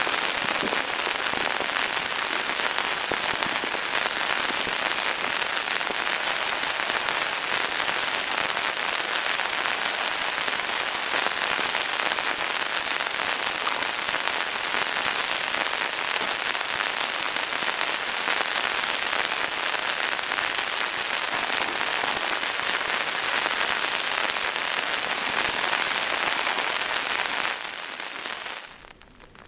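Heavy rain falling steadily in a dense, even hiss, dropping away abruptly near the end.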